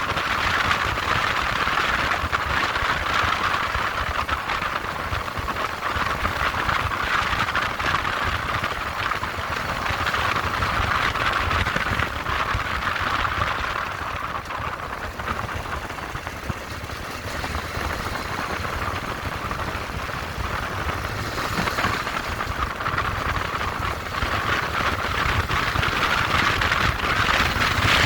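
Moped running on the move: steady engine and rushing road noise that eases off a little mid-way and builds again near the end.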